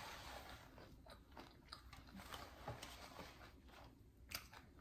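Faint chewing and soft mouth clicks of a person eating, with one sharper click about four seconds in.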